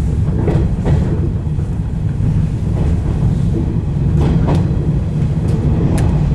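115-series electric train running along the line: a steady low rumble of motors and wheels on rail, with the wheels clicking over rail joints in pairs now and then.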